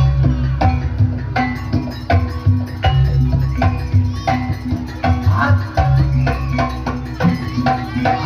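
Javanese jaranan accompaniment music: hand drums and struck pitched percussion playing a busy, steady rhythm over a deep low drum or gong layer.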